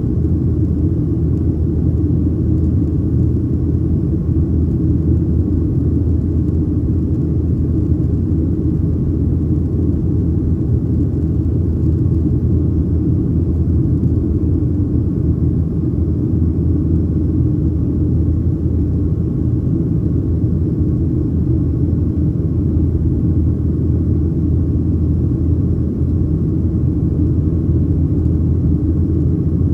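Steady, loud cabin rumble inside a Boeing 737-800, its CFM56-7B engines and airflow running evenly with no spool-up or change in pitch.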